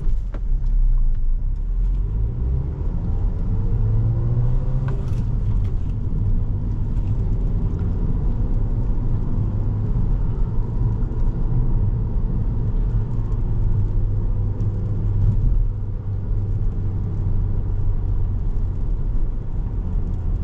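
Cabin sound of a 2017 Volkswagen Jetta SE with a five-speed manual being driven: a steady low engine and road rumble. The engine note rises and falls a few times as the car pulls through the gears.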